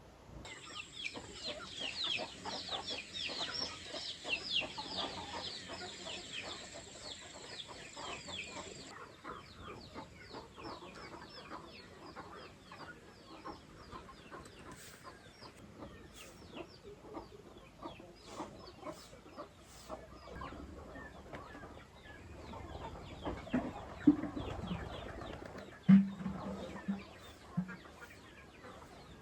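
Chickens calling: a dense run of short, high cheeps for the first third, thinning out later, with a few louder low clucks in the last third.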